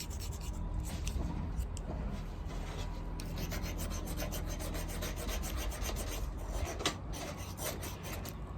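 A steel striker scraping along a ferrocerium fire-starter rod in quick rasping strokes, some strokes sharper than others.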